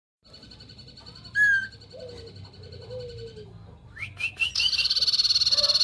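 Common iora (cipoh) singing: soft, low, drawn-out whistles that slide downward, one sharp loud whistle about a second and a half in, then from about four and a half seconds a loud, fast pulsing trill.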